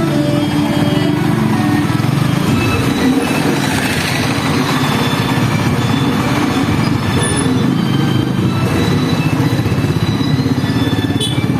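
Motorcycle engine running steadily while riding, mixed with busy street noise.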